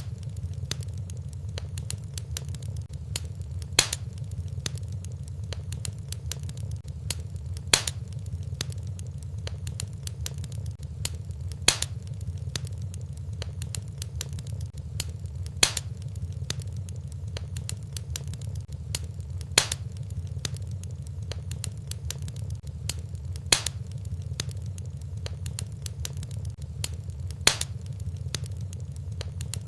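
Wood fire burning in a fireplace: a steady low rumble under continual fine crackling, with a sharper pop about every four seconds.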